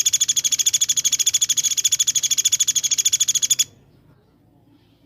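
Songbird giving a very fast, evenly spaced train of sharp high call notes, about fourteen a second, that stops abruptly about three and a half seconds in.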